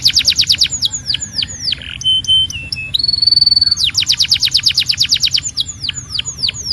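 Domestic canary singing: a fast trill of sharp downward-sweeping notes, about eight a second, then a pause and two held whistled notes, one higher than the other. A second fast trill follows and slows into separate sweeps that stop near the end.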